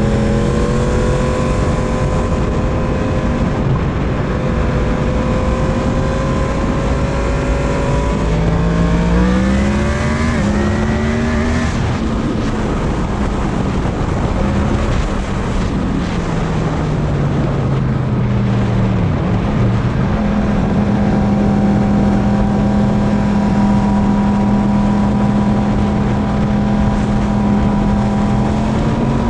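Yamaha MT-10 motorcycle's inline-four engine under way, with heavy wind noise on the microphone. The revs climb about eight seconds in, fall away over the next several seconds, then hold steady and rise again near the end.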